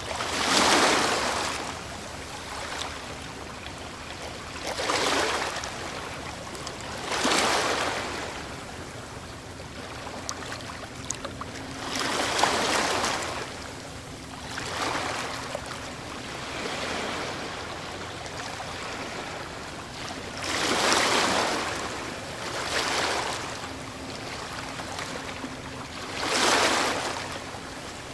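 Ocean waves breaking one after another, each a rushing swell of surf that fades into its wash, about every two to five seconds.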